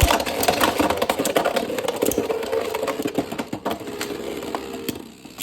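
Two Beyblade X spinning tops whirring in a plastic stadium, with rapid clacks as they collide, growing quieter toward the end as they slow.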